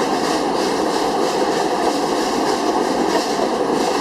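A steam-powered excursion train rolling along the track, heard from aboard: a steady rumble of wheels on rails with a faint repeating clatter.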